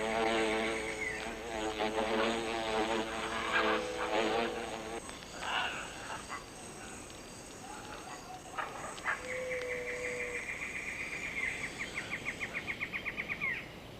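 Paper wasps fanning their wings over the nest, a steady droning buzz that stops abruptly about five seconds in. Quieter rainforest ambience follows, with a high pulsing trill in the second half whose pulses quicken near the end.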